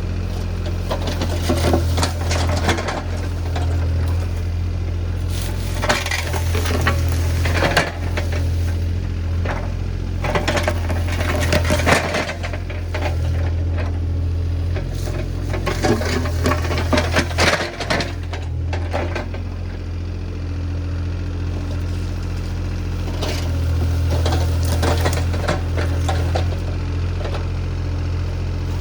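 Diesel engine of compact earthmoving equipment running steadily, with repeated metallic clanks, rattles and scraping knocks scattered throughout.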